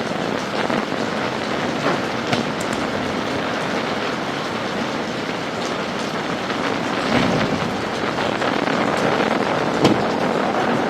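Heavy rain pouring steadily, with a few sharp taps standing out.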